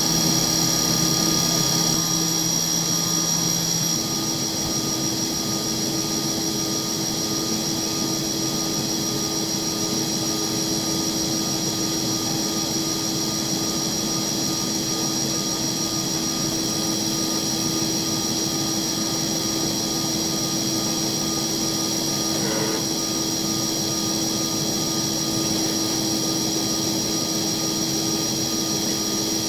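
CNC machine spindle running at steady high speed with a constant whine while an engraving cutter cuts scale marks and digits; a lower hum drops out about four seconds in.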